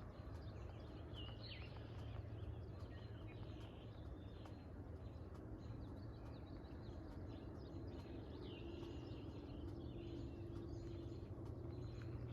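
Outdoor background: a steady low rumble with a few faint bird chirps, one about a second and a half in and another around eight to nine seconds in.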